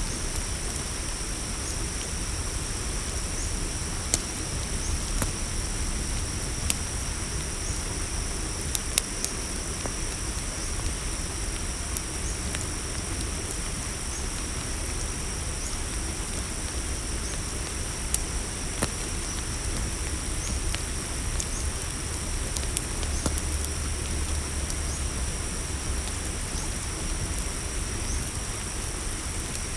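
Campfire crackling with scattered sharp pops over a low rumble, against a steady high-pitched chorus of crickets.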